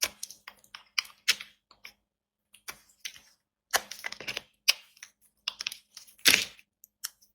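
Knife cutting through dry bar soap: a run of short, crisp cracks and crunches at uneven intervals, the loudest about six seconds in.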